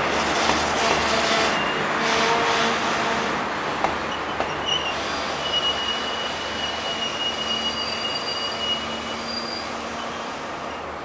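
Regional diesel railcars running through station tracks at low speed, with rumbling wheel-on-rail noise that slowly fades. From about halfway, an X 72500 diesel railcar's wheels give a thin, steady, high-pitched squeal for a few seconds as it moves away.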